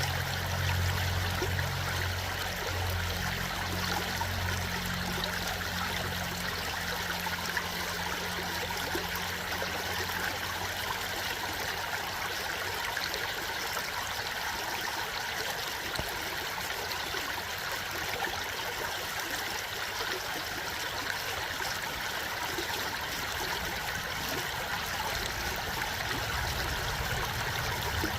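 Water of a stream flowing steadily, an even rushing trickle. A low rumble underneath is strong in the first few seconds, fades away after about ten seconds, and returns near the end.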